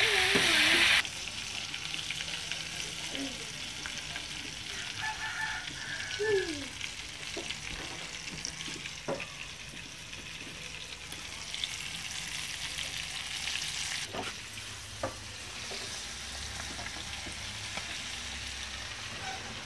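Breaded squid pieces deep-frying in hot oil in a small pan: a loud sizzle for about the first second, then a steady quieter sizzle with scattered crackles and a few sharp clicks.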